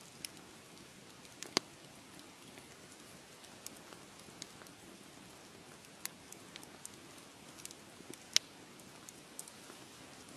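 Wood fire crackling: a soft steady hiss with scattered, irregular sharp pops, two of them much louder, about a second and a half in and past eight seconds in.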